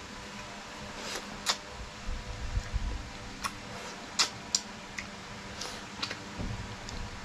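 Close-miked biting and chewing of a crisp, toasted piece of baked-oyster topping: scattered sharp crunches and crackles, the loudest about one and a half and four seconds in. A steady fan-like hum runs underneath.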